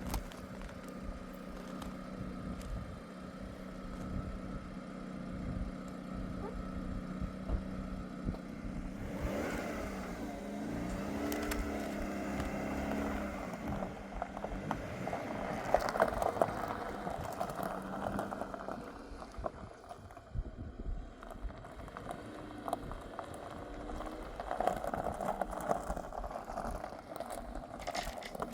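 Car engine running as the vehicle drives, a steady low hum whose pitch bends down and up for a few seconds about a third of the way in.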